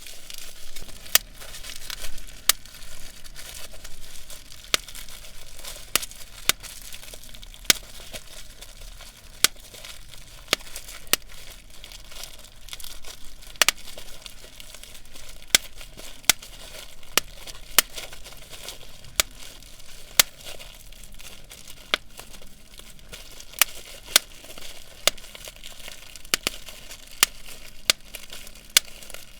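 Bubble wrap being popped by hand: sharp single pops at irregular intervals, roughly one or two a second, with the plastic crinkling between pops.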